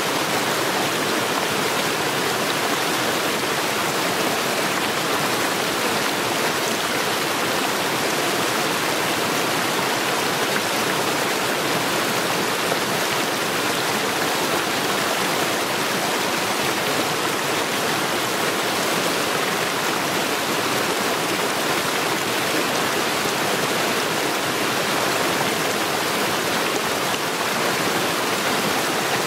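Mountain stream rushing over rocks, a steady, even wash of water noise.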